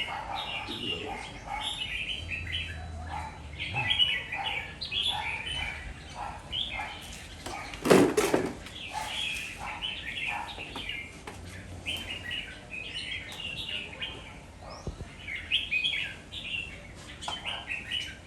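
Red-whiskered bulbul singing in short, rapid chirping phrases repeated over and over, with one loud thump about eight seconds in.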